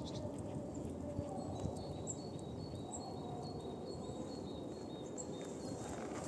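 Outdoor park ambience: a steady low rumble with faint, short, high chirps repeating throughout.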